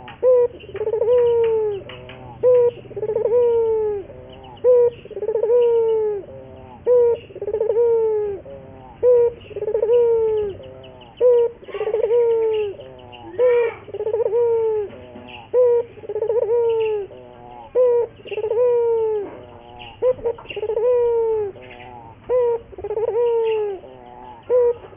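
Puter (Barbary dove) cooing over and over, about once a second. Each call is a short note followed by a longer coo that falls in pitch: a lure ('pancingan') call used to get other puter doves calling.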